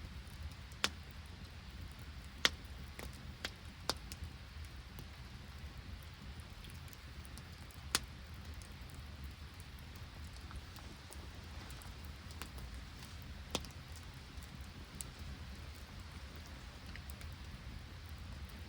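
An open wood campfire in rain and sleet: a steady low rumble and hiss with scattered sharp pops and ticks, a few louder ones standing out.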